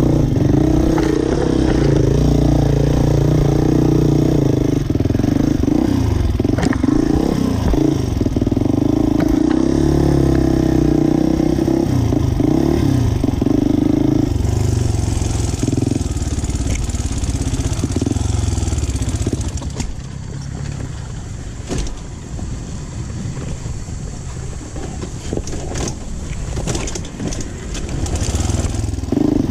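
Dirt bike engine heard from the rider's own machine, revving up and down as it climbs a rutted, rocky trail. About twenty seconds in it settles to a lower, quieter run, with a rushing hiss over it.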